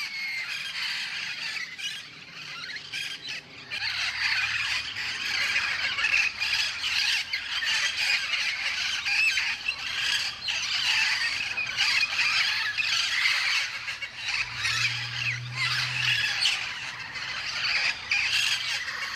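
A flock of feral Amazon parrots squawking, with many harsh calls overlapping without pause.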